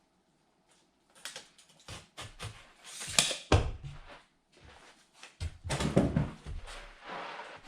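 A narrow strip, about half an inch, being cut by hand off the edge of a sheet of duct material: irregular rasping and crunching cuts in three spurts, with knocks from handling the piece.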